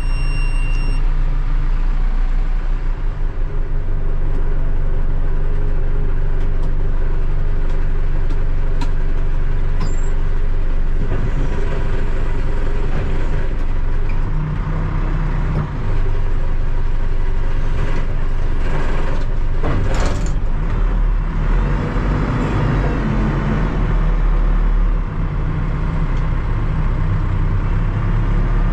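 Terex TLB-815 backhoe loader's diesel engine idling steadily, running smoothly, with a few short clicks about twenty seconds in.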